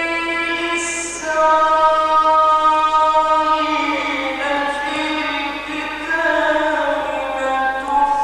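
A man's voice chanting Quranic recitation in the ornate mujawwad style, holding long melismatic notes that glide up and down in pitch, with a hissing consonant about a second in and again at the end.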